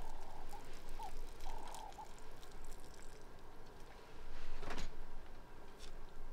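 Outdoor ambience with a bird's short chirps in the first two seconds and scattered faint clicks. A brief, louder rustling noise about four and a half seconds in.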